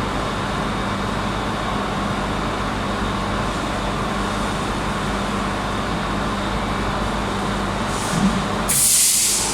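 Steady machinery hum with a constant low drone. Near the end comes a short, loud hiss, like compressed air being vented.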